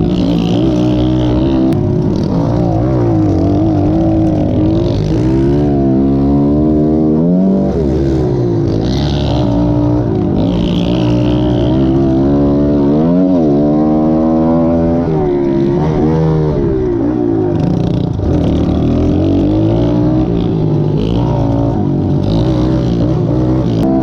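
Pit bike engine running and revving, its pitch climbing and dropping again and again as the throttle is worked.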